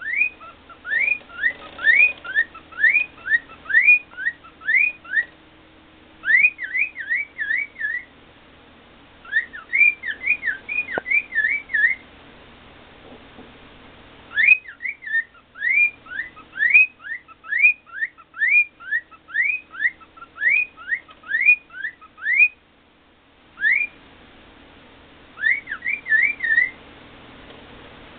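Cockatiel whistling its song: runs of quick rising whistled notes, several a second, in phrases broken by short pauses.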